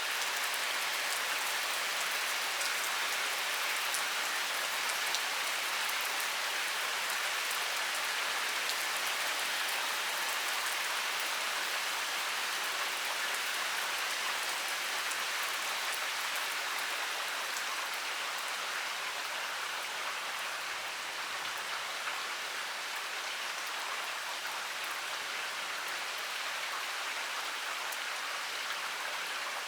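Heavy rain pouring steadily, a dense hiss of falling rain with many fine drop ticks on hard surfaces.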